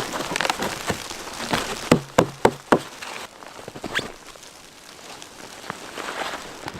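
Sharp knocks: about four in quick succession around two seconds in and one more about four seconds in. Crunching, rustling handling noise runs under them and goes quieter in the second half.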